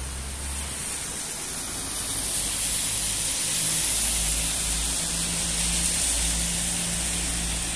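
Steady rain falling, a continuous hiss that grows a little louder about two seconds in, with a low rumble underneath.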